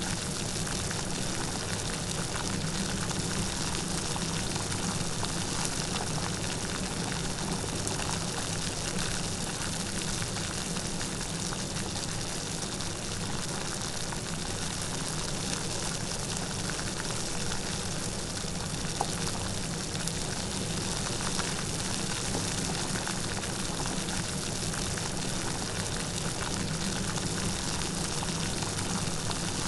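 Light, steady rain falling, a continuous even patter with no thunder.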